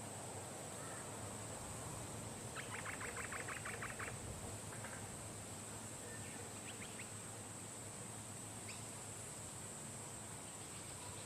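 Bar-winged prinia giving a rapid chattering run of about ten short notes over about a second and a half, followed by a few scattered single notes. Insects drone steadily and high-pitched throughout.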